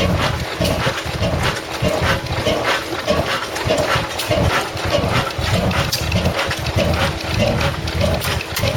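Old slow-running stationary engine, its exhaust chuffing about two to three times a second in an uneven beat, with a faint steady hum joining about three seconds in.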